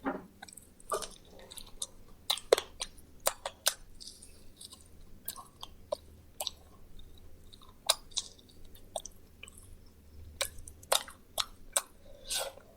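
Close-up chewing and crunching of fried quail, with many sharp, irregular cracks as the small bones break between the teeth.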